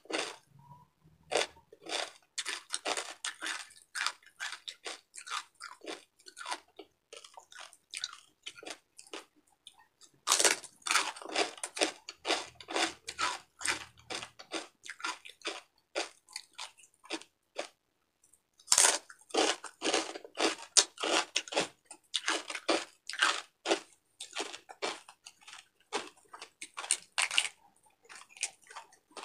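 Crisp deep-fried pork belly (bagnet) being chewed: rapid crackling crunches in runs, with two short pauses, the loudest crunches coming just after each pause.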